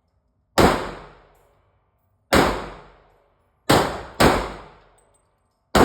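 Five shots from a Glock 23 .40 S&W pistol, fired at an unhurried, uneven pace with a quick pair in the middle, each crack trailing off in a short ringing echo.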